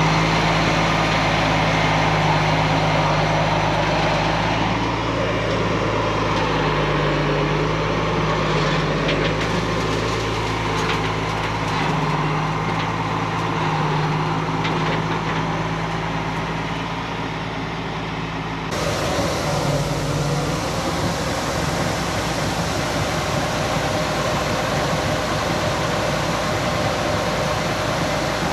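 Heavy farm machinery engine running steadily with a low hum. About two-thirds of the way through the sound changes abruptly to a different, noisier running machine.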